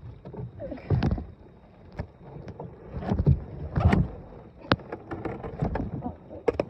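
Irregular knocks and thumps of a small boat's hull and fittings as it is handled and held alongside to get out, with a few sharp clicks.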